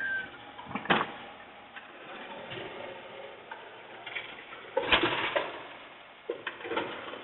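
Garbage truck at work: metallic clanks and knocks over a light mechanical rattle, with a sharp bang about a second in and a louder cluster of bangs near five seconds.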